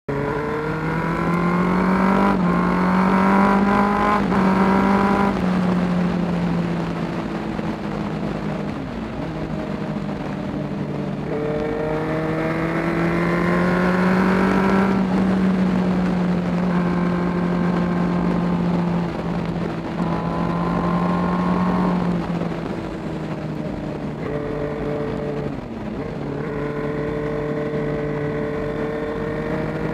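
Suzuki GSX-R sportbike engine under way, its pitch climbing and falling with the throttle and stepping down suddenly at each gear change, several times over, with steady wind rush on the microphone.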